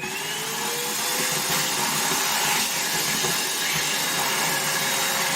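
Cordless stick vacuum's battery motor spinning up, its whine rising and levelling off about a second in, then running steadily with a rush of air as it sucks up cracker crumbs.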